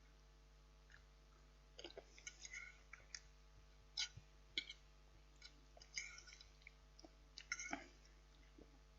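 Faint eating sounds: cutlery clicking and scraping against the meal container in short, scattered strokes, with chewing.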